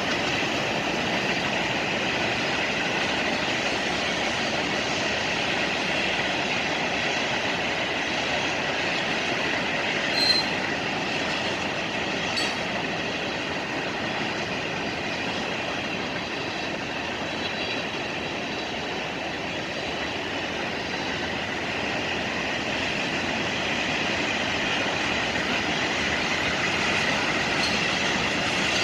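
Freight train rolling past, its steel wheels making a steady running noise on the rails with a thin, steady wheel squeal. Two sharp clicks come about ten and twelve seconds in.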